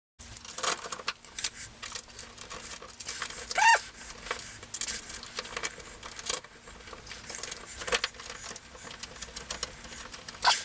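Small metal and plastic parts of a door handle and latch set clicking and rattling as they are handled and fitted together on the door. A short pitched squeak, the loudest sound, comes about three and a half seconds in.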